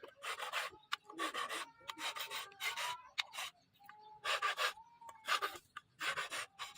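Steel knife blade being worked by hand with an abrasive tool: a series of separate rasping strokes, each under half a second, about one a second with a few pauses.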